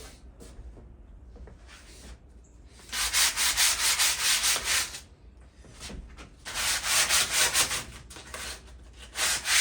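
Sandpaper rubbed by hand over a rusted metal patio table, taking off surface rust. It comes in two bursts of rapid back-and-forth strokes, about three seconds in and again about six and a half seconds in, with another starting near the end.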